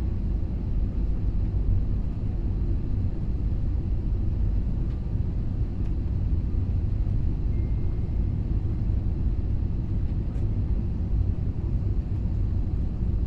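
Steady low rumble of airflow and engine noise inside an Airbus A320's passenger cabin on approach to landing, with a faint brief high tone about halfway through.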